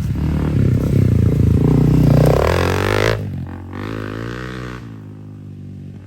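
Dirt bike engines running and revving, loud for the first three seconds with the pitch swinging up and down. The sound drops suddenly about three seconds in, then a bike is heard accelerating, its pitch rising, before fading away.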